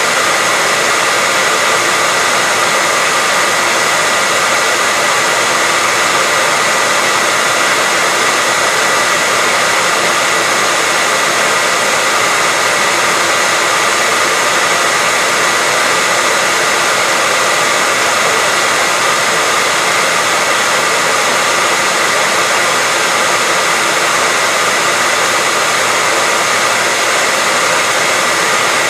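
Hair dryer blowing continuously at a steady, unchanging pitch and level, with a faint high whine from its motor fan over the rush of air.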